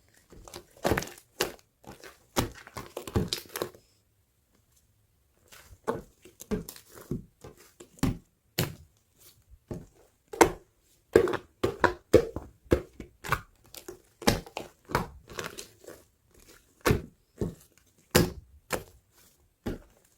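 Orange slime being squeezed and pressed by hand, giving irregular sticky pops and clicks, with a short pause about four seconds in.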